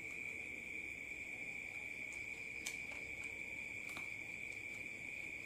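Steady high-pitched tone, with a couple of faint short clicks of chicken feet being bitten and chewed about two and a half and four seconds in.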